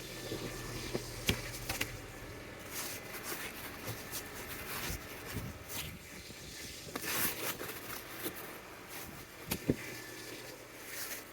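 Wet, heavy snow being scraped and swept off a car: irregular scraping and brushing strokes, with a sharp knock about a second in and another near the end.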